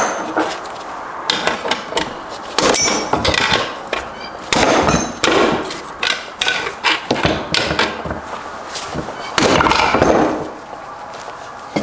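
Irregular hammer strikes and clanking of steel parts as a part is being knocked loose inside a Subaru six-speed transmission, with a few longer stretches of metal rattling and scraping between the blows.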